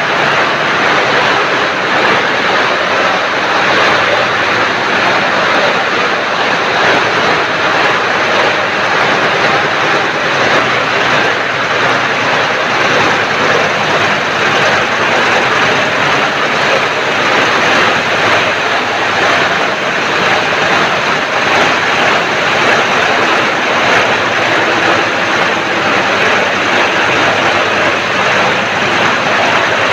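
Embroidery machines running, a loud, steady mechanical noise.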